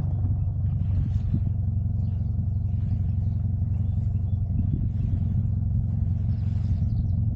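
2000 Honda Civic's D-series four-cylinder engine running steadily, a low drone that holds one pitch.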